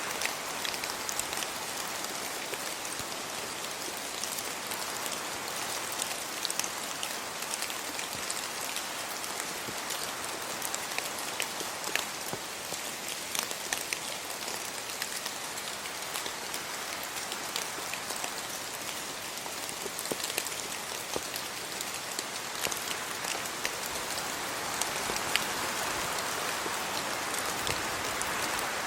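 Steady rain falling, a dense hiss with many individual drops ticking close by; it swells a little near the end.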